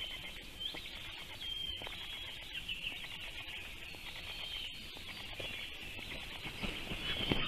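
A chorus of songbirds: many overlapping high chirps and short whistles, with a few soft knocks near the end.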